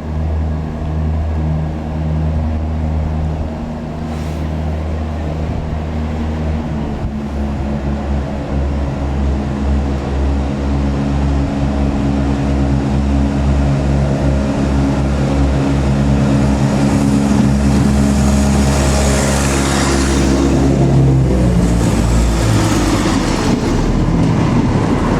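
Class 170 Turbostar diesel multiple unit pulling away, its underfloor diesel engines running under power with a steady drone that grows louder. A rush of noise and a shift in engine pitch come about twenty seconds in as it goes by.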